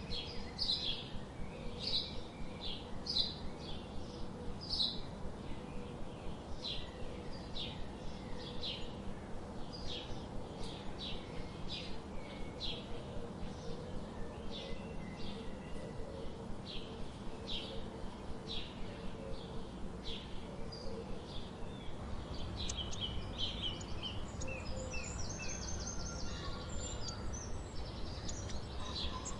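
Small bird chirping repeatedly, short high chirps every second or so over a steady background hiss; a faster twittering joins in the last few seconds.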